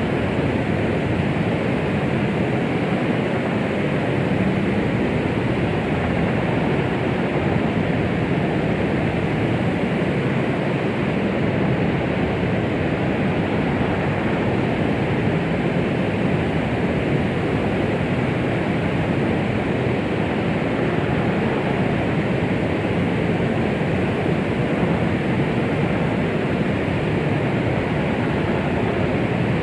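Steady, unchanging white noise that rushes evenly with no rhythm or breaks. It is fuller in the low and middle range than at the top, and is meant to imitate the sound of the womb.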